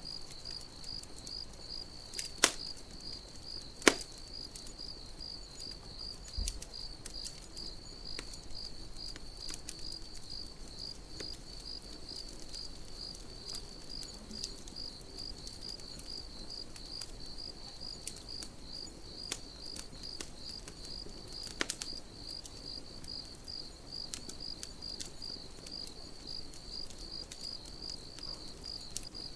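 Crickets chirping in a steady, even pulse, over a campfire crackling with scattered small ticks and a few sharp pops, the loudest about two and four seconds in and again just past twenty seconds.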